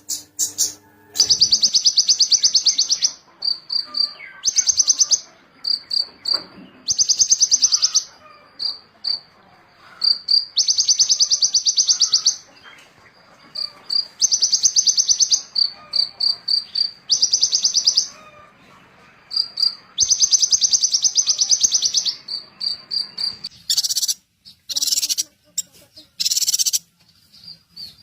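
A small songbird singing: rapid, high trills of one to two seconds, alternating with runs of short high chips, with choppier notes near the end.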